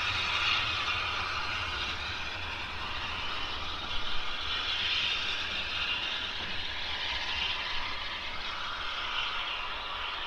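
A steam-hauled train running along the line, heard as a steady rolling hiss with a low rumble underneath and a brief louder moment about four seconds in.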